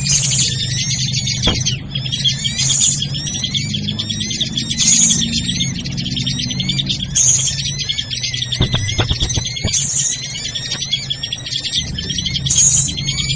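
Dense, noisy chorus of drongo (srigunting) calls from a bird-luring recording, with a louder high squealing call coming back about every two and a half seconds over a low steady hum.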